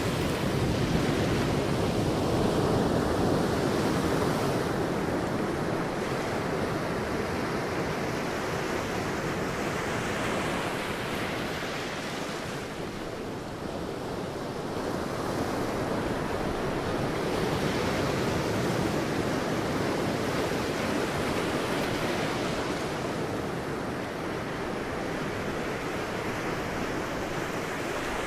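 Sea waves breaking and washing on a beach, a continuous surf noise that swells and eases every several seconds, with some wind on the microphone.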